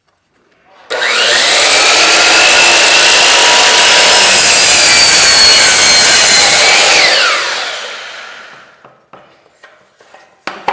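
Power miter saw spinning up about a second in and cutting through a piece of wood trim for a 45-degree mitred return. After about six seconds the trigger is released and the blade winds down with a falling whine, followed by a few light knocks.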